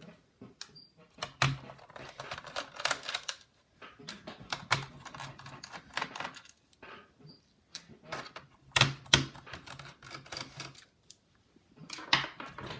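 Screws being backed out of an HP Pavilion dv6000 laptop's case with a precision screwdriver: quick clicking and rattling in several spells with short pauses between.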